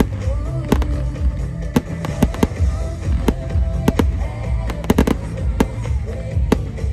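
Aerial fireworks bursting with about a dozen sharp bangs at uneven intervals, over loud music with a heavy bass.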